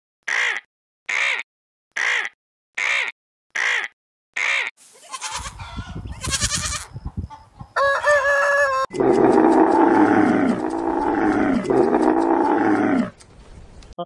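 A bird gives six short calls, evenly spaced about one a second. Then comes a flock of farmyard chickens clucking, and after that a loud, long, wavering call that lasts about four seconds.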